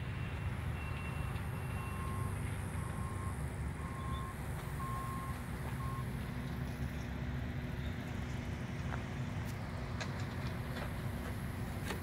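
A reversing alarm beeping about once a second, fading out around six seconds in, over a steady low rumble of engines.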